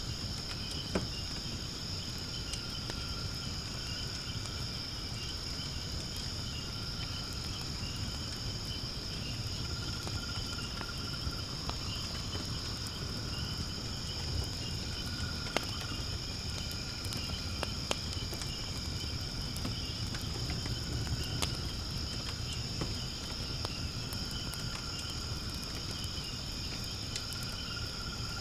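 A steady, high-pitched chorus of insects, crickets trilling, with sharp crackles and pops from firewood burning in a fire pit now and then.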